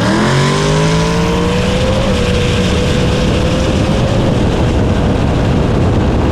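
Drag-racing vehicle engine at full throttle on a launch. Its pitch climbs over the first two seconds, then holds at a steady high note, with a heavy rushing noise under it.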